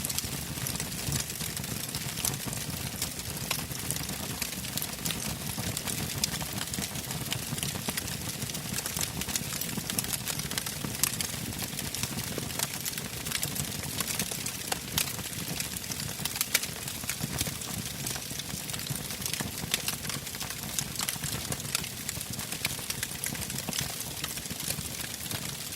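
Wood fire burning in a fireplace: steady hiss and low rumble of the flames with frequent irregular sharp crackles and pops.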